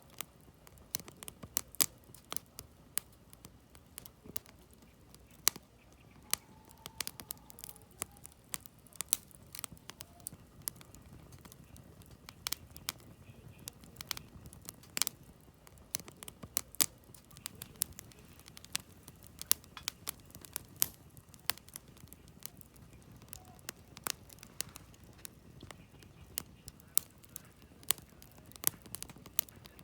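Wood campfire burning, the logs crackling with frequent, irregular sharp pops over a soft low rush of the flames.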